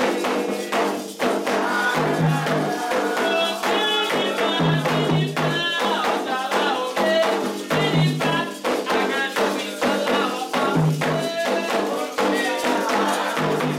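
Candomblé ritual music for Xangô: atabaque hand drums beat a fast, even rhythm with a rattle, and voices sing a chant over them for a few seconds near the middle.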